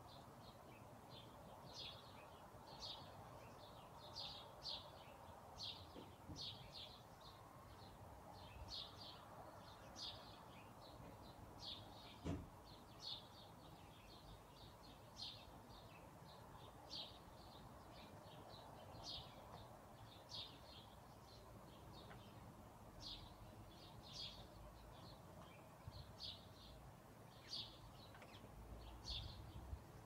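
Birds chirping faintly in short, high chirps about once a second, over a soft steady hiss, with a single click about twelve seconds in.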